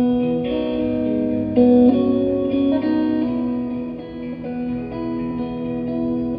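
Guitar playing slow, ringing chords that change every second or so: the instrumental opening of a live song before the singing comes in.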